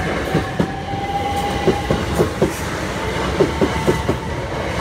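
Southern Class 377 Electrostar electric multiple unit passing close by, its wheels clacking over the rail joints in closely spaced pairs of knocks as each bogie crosses, over a steady rumble and a steady whine.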